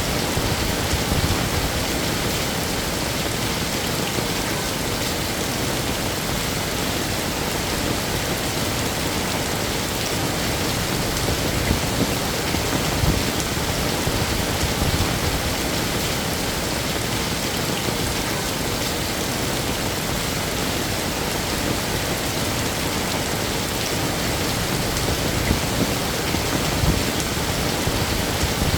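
Heavy rain falling steadily: a dense, even hiss of rain with a few brief louder spatters.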